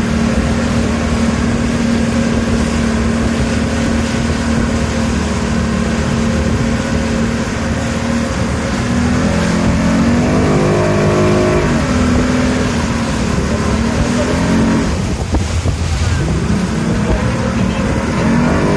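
Motorboat engine running steadily, then revving up and down about halfway through and again near the end.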